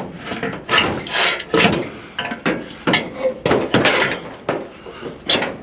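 Aluminum scrap clanking and knocking as it is handled and stacked, a quick irregular string of hard knocks and rattles.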